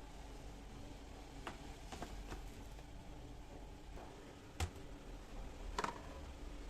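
A few light clicks and knocks from groceries and kitchen containers being handled and set down, the sharpest about halfway through, over a low steady hum.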